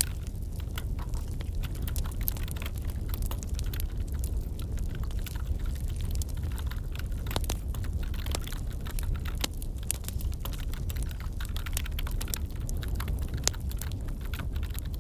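Wood fire crackling in a fireplace: irregular small pops and clicks over a low, steady rumble.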